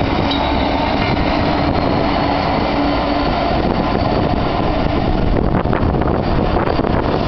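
Freightliner diesel locomotive running light engine, passing slowly with a continuous engine and wheel rumble.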